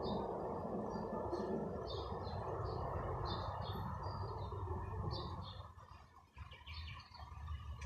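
Small birds chirping in short, high, repeated notes, over a low rumble of street traffic that dies away about six seconds in.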